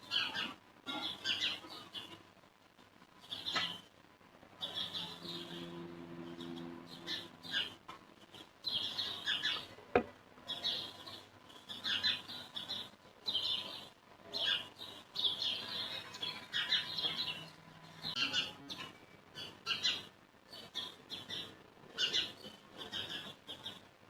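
Small birds chirping over and over in short bursts, with a low steady hum for a couple of seconds about five seconds in and a single sharp click about ten seconds in.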